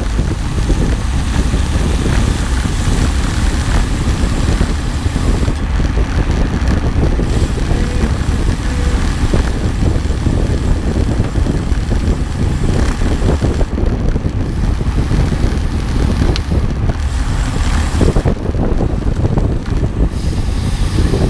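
Loud wind buffeting on the microphone, a steady low rumble with a hiss above it, over the running noise of a moving vehicle.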